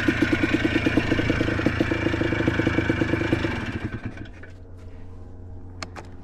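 ATV engine running with a fast, even pulsing, then falling to a much quieter steady hum about four seconds in.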